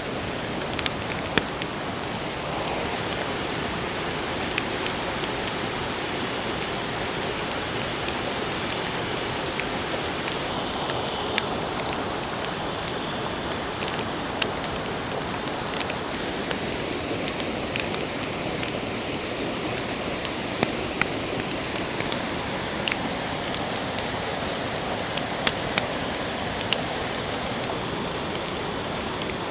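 Steady rush of water noise, with scattered sharp pops and crackles.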